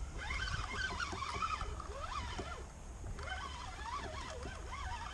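River water gurgling and lapping against a kayak hull, with many small bubbling, wavering tones over a steady low rumble of moving water and wind.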